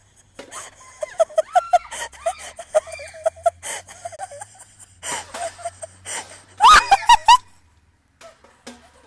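A quick run of laughter. About seven seconds in come a few loud, shrill cries with gliding pitch.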